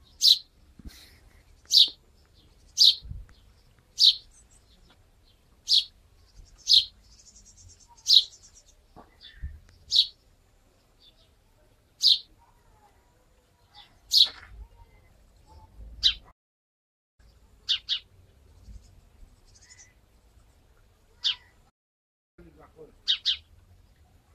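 Eurasian tree sparrow chirping: single short, high chirps, one every second or two, with a few quick pairs near the end.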